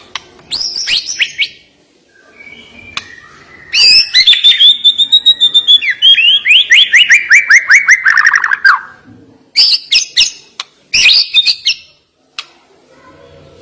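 White-rumped shama (murai batu) singing: short bursts of sharp, high notes, then midway a long phrase of rapid repeated notes that slides steadily down in pitch, followed by more short bursts near the end.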